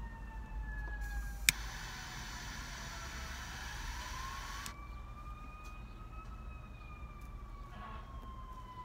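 Distant emergency-vehicle siren wailing slowly, its pitch falling, rising and falling again. A sharp click about a second and a half in, then a few seconds of hiss, over a steady low hum.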